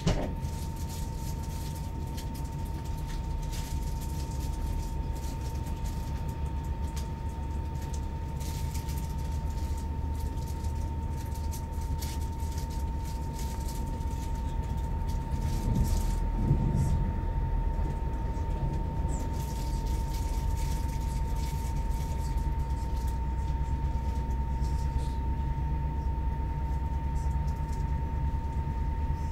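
Steady low rumble of a moving electric passenger train heard from inside the carriage, with a constant thin high tone over it. There is a short knock at the very start and a slight swell in the rumble about halfway through.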